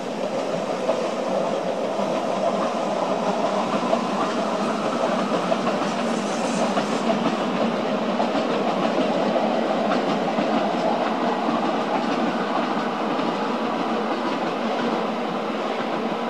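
Rhaetian Railway passenger train, an electric locomotive hauling coaches, running steadily across a stone viaduct: a continuous sound of wheels on rails with a faint clickety-clack.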